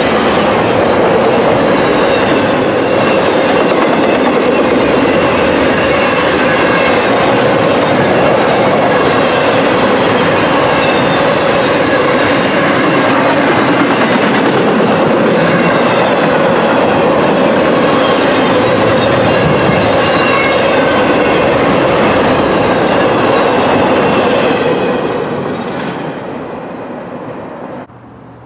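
Intermodal freight train cars rolling past: a steady, loud rumble and clatter of steel wheels on the rails. The sound fades a few seconds before the end, as the last car passes, and drops off sharply just before the end.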